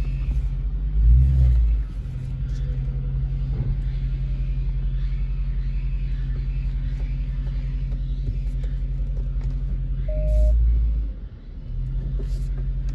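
Dodge Charger engine running at low speed on its stock exhaust, a steady low rumble. It swells briefly about a second in and again around ten seconds, then drops off for a moment just after.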